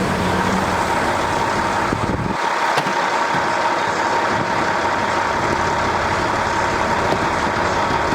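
Steady mechanical running noise with a thin high whine held throughout; a low rumble under it drops away about two and a half seconds in.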